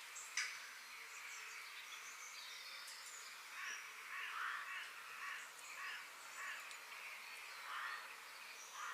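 Birds calling and chirping in a park, with short high chirps throughout and a run of harsher repeated calls, about two a second, through the middle of the stretch. There is a single sharp click about half a second in.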